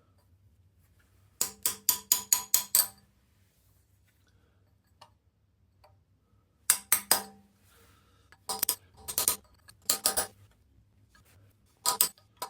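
Metal-on-metal tapping, a tool striking the tab washers on a Morris Minor engine's flywheel bolts to knock them back down. It comes in quick runs of ringing taps: a run of about seven, then a pause, then shorter runs of two to four.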